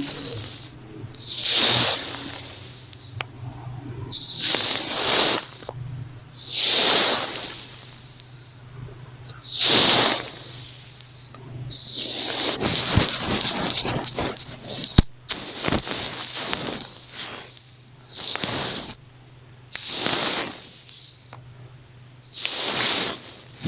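Makeup brush swept over the microphone in slow, hissing strokes about every two to three seconds, with a stretch of quicker, busier brushing in the middle.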